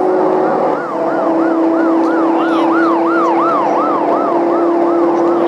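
Emergency vehicle siren wailing in a quick up-and-down sweep, about three cycles a second, growing louder to the middle and then fading as it passes, over a steady vehicle drone.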